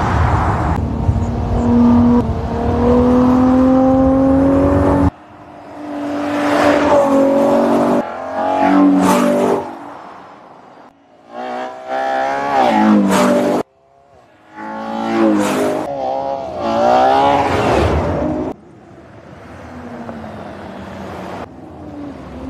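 Ferrari Purosangue's 6.5-litre naturally aspirated V12 revving hard, its pitch climbing steadily for about five seconds. Several short accelerations and pass-bys follow, rising and falling in pitch, each cut off abruptly. The last stretch is quieter.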